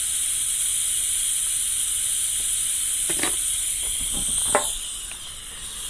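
Steady high-pitched hiss with a few faint short knocks; the hiss eases off a little after about four and a half seconds.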